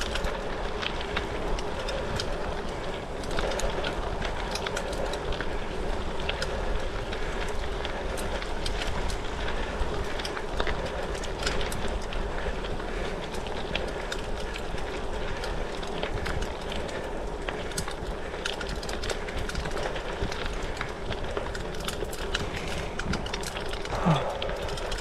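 Gravel bike on Goodyear Connector gravel tyres rolling over loose gravel: a steady rolling noise peppered with frequent sharp ticks of stones flicked up by the tyres against the frame and down tube.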